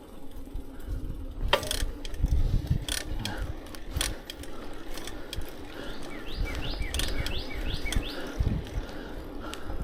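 Bicycle freewheel ticking as the bike coasts, with scattered clicks and low wind rumble on the microphone. About six seconds in a bird calls: a quick run of short, falling chirps.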